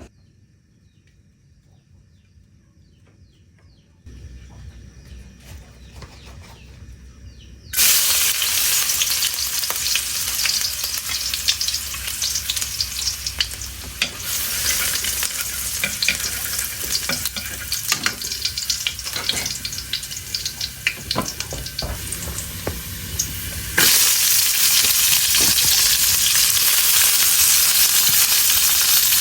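Food frying in hot oil in a pan: after a few quiet seconds a loud sizzle starts suddenly about eight seconds in, with the small clicks and scrapes of stirring. The sizzle grows louder again about three-quarters of the way through.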